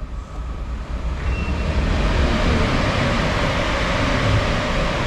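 A vehicle passing close by: a loud rushing noise that builds over about a second and then holds.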